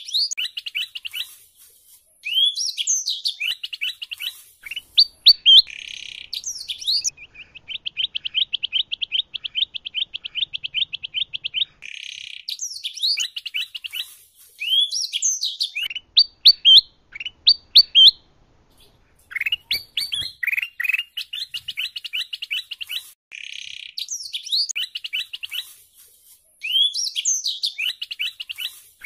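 Kutilang emas (a bulbul) and domestic canary song mixed together: bursts of sweeping whistled notes and sharp chirps with short pauses, and a fast, even trill about a third of the way in.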